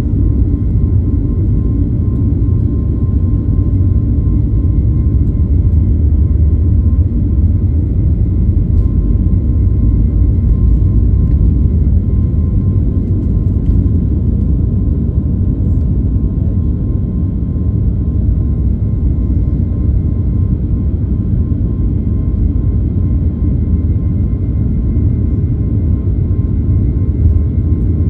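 Airliner takeoff: a steady low rumble with a faint steady whine above it, unchanging in level throughout.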